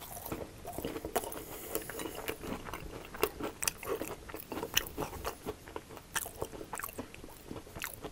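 A person chewing a crispy, breaded fried potato cake close to the microphone: an irregular run of sharp crunches as the crust breaks between the teeth.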